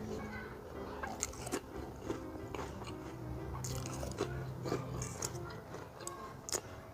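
Close-miked eating: crunching and chewing of spicy fried instant noodles with crunchy snack rings, with sharp crunches several times between softer chewing.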